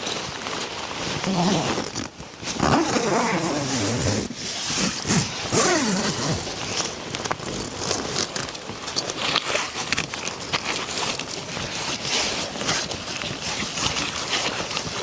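Rain falling steadily on a tent, with many small clicks and rustles of handling close by. Voices sound briefly in the first few seconds.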